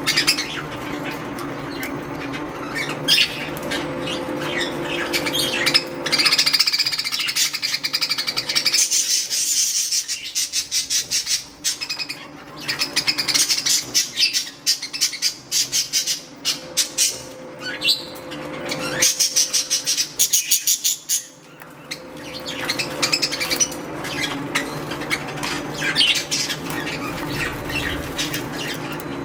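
Bathing budgerigars chirping and chattering, with rapid wing fluttering and splashing as they bathe; the fluttering comes in two denser bursts, about a third and two-thirds of the way through.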